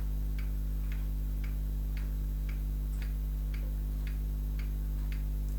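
Clock ticking evenly, about two ticks a second, over a steady low electrical hum.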